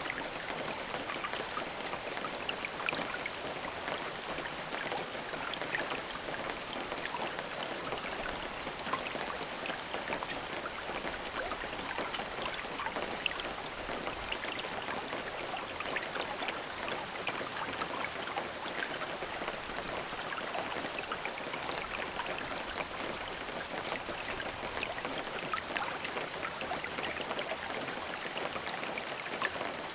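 Steady rain falling, a continuous hiss of many small drops ticking on a surface.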